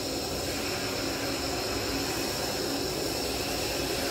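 Portable gas camping stove burning at full flame under a large pot, a steady even hiss.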